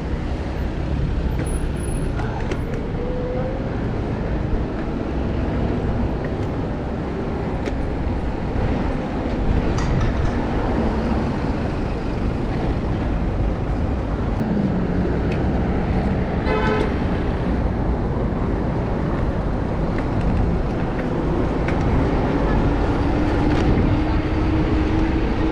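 Busy street traffic heard from a bicycle: a steady wash of engine and tyre noise from passing cars and buses. A brief vehicle horn toot comes about two-thirds of the way through.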